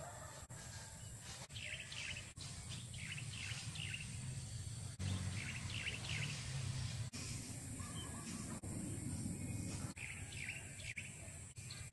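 A bird calling in short runs of quick, sharp notes: a longer run early on, another around the middle and a third near the end, over a low, steady rumble.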